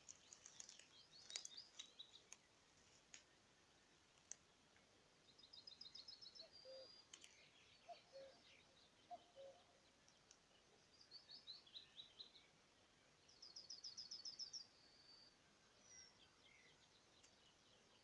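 Songbirds singing faintly in short, rapid trilled phrases over quiet rural background noise, with a faint low two-note call repeated three times near the middle.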